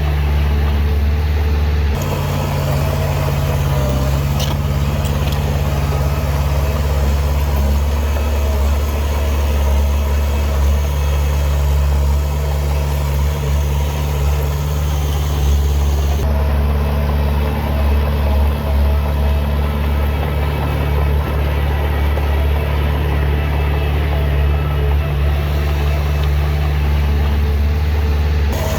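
Diesel engine of heavy earthmoving equipment running steadily with a deep drone. The sound changes abruptly about two seconds in and again about halfway through.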